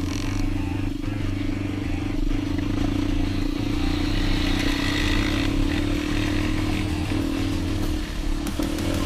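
Dirt bike engine running steadily at an even pitch.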